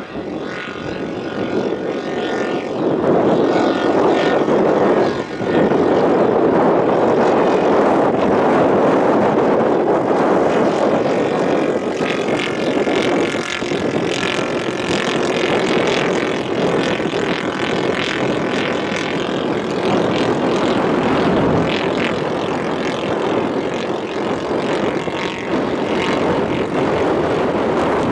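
Radio-controlled scale model aeroplane flying, its engine and propeller running steadily, getting louder about three seconds in and then holding.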